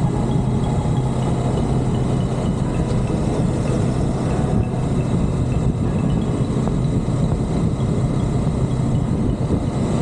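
Motorcycle engine running steadily with a low hum, under rushing air during a ride.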